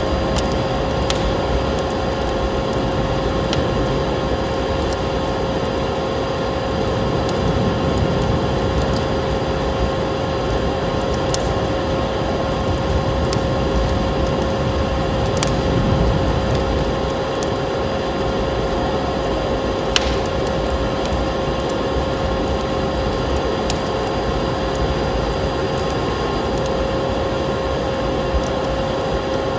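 Wood fire crackling in a fireplace, with scattered sharp pops and snaps, over a steady low rush of wind and a steady hum.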